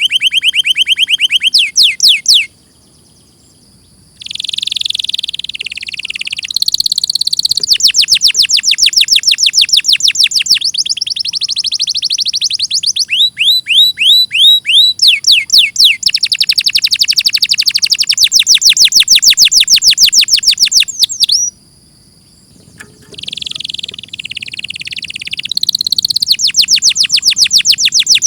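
Domestic canary singing a long song of fast trills: rows of quickly repeated high, sweeping notes that change from one trill to the next. It breaks off briefly twice, about two and a half seconds in and again about twenty-one seconds in, then resumes.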